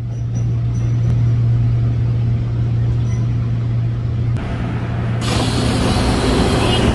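Road vehicle engine running with a steady low hum amid traffic noise. About five seconds in, a loud hiss rises in and holds.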